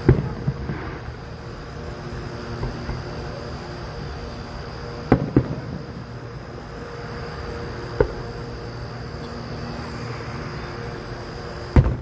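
Distant fireworks shells bursting in single booms a few seconds apart: one at the start, a quick pair about five seconds in, one about eight seconds in and a strong one near the end. Insects chirr steadily underneath.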